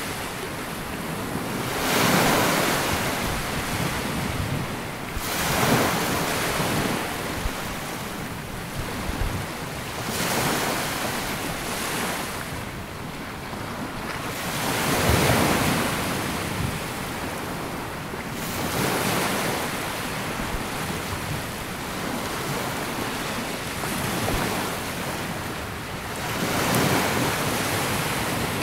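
Small waves breaking and washing up a sandy beach, a steady rush of surf that swells every few seconds as each wave comes in.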